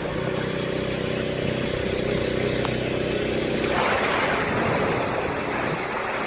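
An engine idling steadily, then a broad rushing noise that comes in about four seconds in and covers the engine hum.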